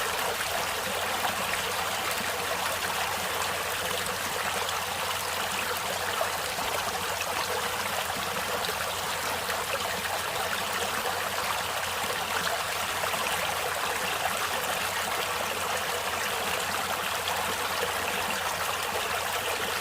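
Stream water flowing and trickling over rocks, a steady rushing with no pauses.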